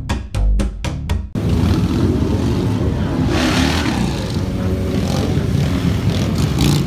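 A quick run of rhythmic beats for about the first second, then a sudden change to loud, steady outdoor noise with a heavy low rumble.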